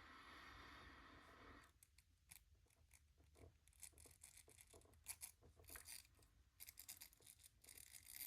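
Near silence with faint, scattered clicks and taps of small parts being handled, after a soft hiss for about the first second and a half.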